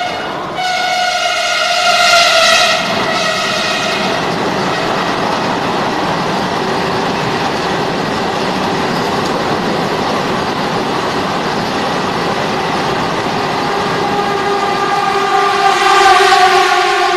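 A passenger train passing close by, with a steady rumble of its coaches on the rails. Its horn sounds for a few seconds near the start and again near the end.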